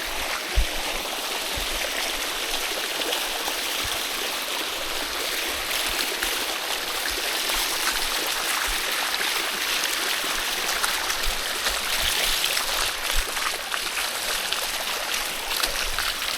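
Steady rushing of water flowing over rock, like a stream or small cascade, with a few brief low thumps scattered through it.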